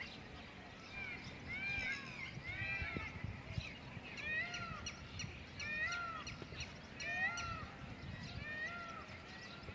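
Birds calling: many short, high, arched chirps overlapping at several a second, over a faint low wind rumble.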